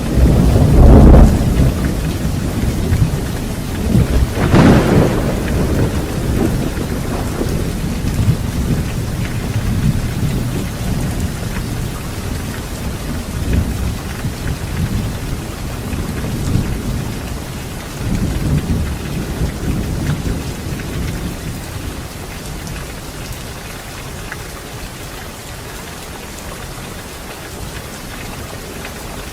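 Thunderstorm: steady heavy rain with a loud thunderclap at the start and a sharper crack about four seconds in, the thunder rumbling on and fading away over the next twenty seconds, leaving only the rain.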